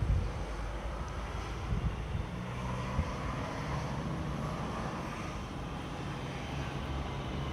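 Train running through a station: a steady low rumble with faint humming tones, and a few knocks in the first three seconds.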